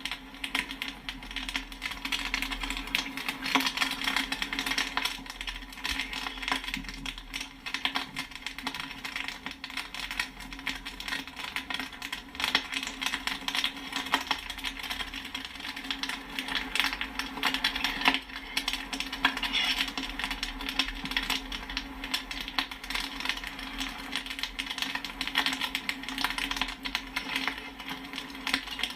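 Popcorn kernels popping rapidly and continuously, a dense run of sharp clicks and pings, over a steady low hum.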